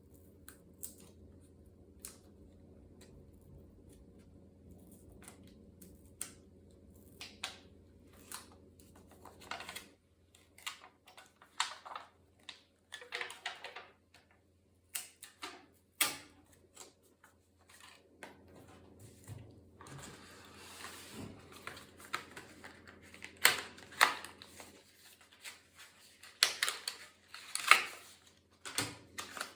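Irregular clicks, taps and knocks of hands working on a laptop's plastic case and parts, sparse at first and thicker toward the end, with a short stretch of rustling or scraping in the middle. A faint steady hum underneath stops about a third of the way in.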